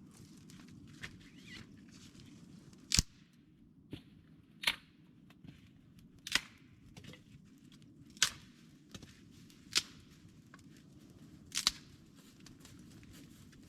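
A series of sharp cracks or knocks, six loud ones spaced about every one and a half to two seconds, with fainter ticks between them over a steady low background noise.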